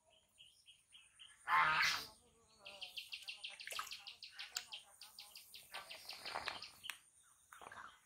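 Small birds calling in rapid series of high chirps and trills, several notes a second, over a faint steady high-pitched drone, with one short loud cry about a second and a half in.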